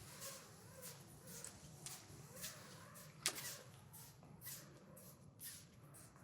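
Faint, irregular scuffs and rustles of a canyoneer's boots and gear on rock, with one sharp click about three seconds in.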